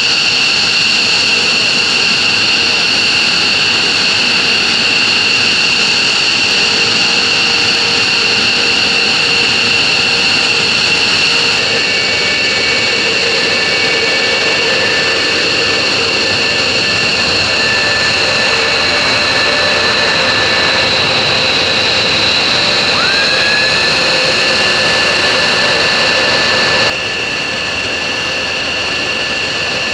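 Military jet engines running steadily with a loud, high-pitched whine. A short rising whistle comes in late on, and the sound drops suddenly in level near the end.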